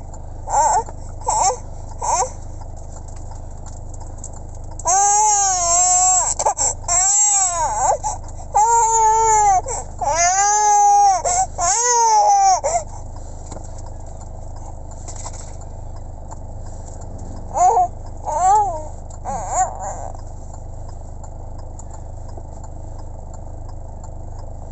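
A baby crying in repeated wailing bursts, each cry rising and falling in pitch. The crying is heaviest in the first half, then comes a lull, then a few short cries. A steady low hum runs underneath throughout.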